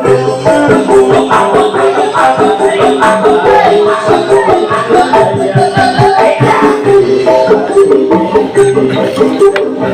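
Loud music played through a big sound-system rig with six subwoofers during a sound check: fast, busy percussion over melodic lines, running without pause.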